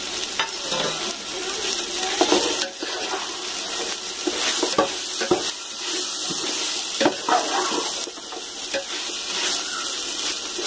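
Chopped onions and green chillies frying and sizzling in a large metal pot, stirred with a perforated steel ladle that scrapes and knocks against the pot now and then.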